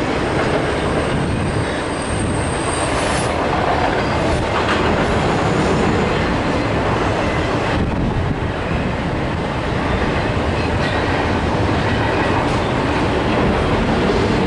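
Norfolk Southern double-stack intermodal freight train rolling past: a steady rumble of steel wheels on rail from the passing container cars. A thin high tone sounds over it for the first three seconds.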